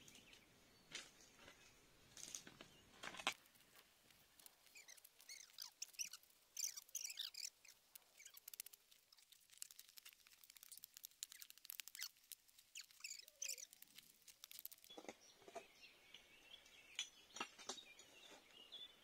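Faint high, rapid chirping of small birds through the middle of the stretch, with a few dull knocks of a hand digging tool striking hillside soil near the start and again near the end.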